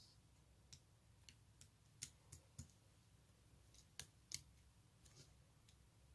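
Faint, irregular clicks and small pops of slime being pressed and stretched by hand, about a dozen in all, the sharpest around two and four seconds in.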